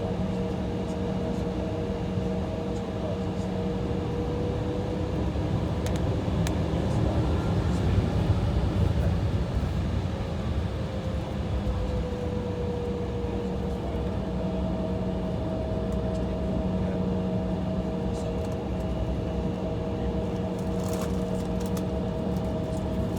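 Steady cabin hum of an Embraer E175 idling on the taxiway: engine and air-conditioning drone with a low rumble and a few held tones, one of them sliding slightly in pitch. It swells a little about eight seconds in.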